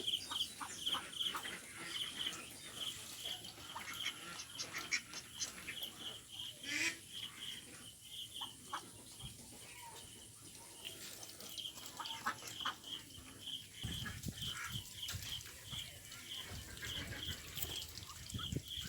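Ducks quacking and calling in short bursts, over a steady high chirp repeating a few times a second. A low rumbling noise comes in about fourteen seconds in.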